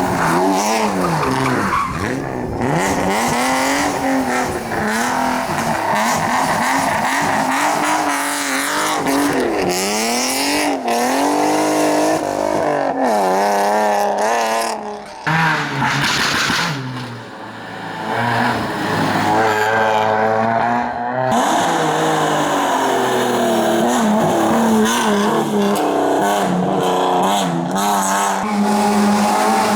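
Historic rally cars at racing speed: engines revving hard, the pitch climbing and dropping again and again with gear changes and lifts off the throttle. The sound cuts abruptly from one car to another a few times.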